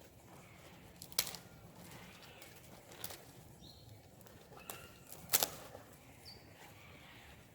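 Campfire firewood giving three sharp cracks, about one, three and five seconds in, the last the loudest. Short, high bird chirps sound faintly in the background.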